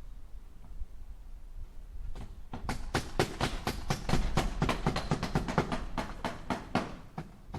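Hammer striking nails into wood in a quick run of light blows, about five a second, starting about two and a half seconds in after a quiet stretch with a low rumble.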